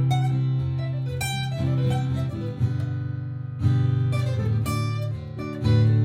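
Martin GPCPA4 acoustic guitar strummed and picked, layered over its own looped parts from a looper pedal, with sustained low notes under fresh chord strikes a few times.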